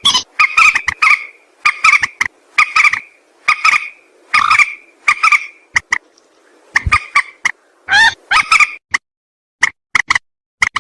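Mandar sawah, a rail, calling: short notes repeated about one or two a second, each on two pitches at once, with a brief pause about nine seconds in.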